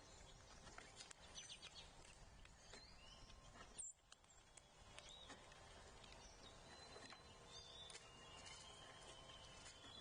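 Faint outdoor ambience with scattered small bird chirps and clicks, and a thin whistled bird note held near the end.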